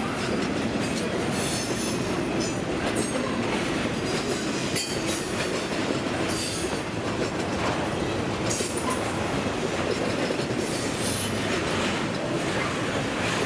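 Norfolk Southern intermodal freight train's cars rolling past, a steady rumble of wheels on rail with brief high-pitched bursts coming and going.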